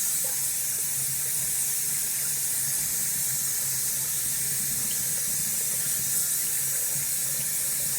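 Bathroom sink tap running steadily into the basin for a fresh-water face rinse after a shave.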